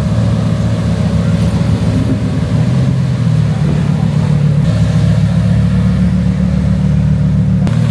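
Car engine running at a steady low drone, its pitch shifting slightly about three seconds in.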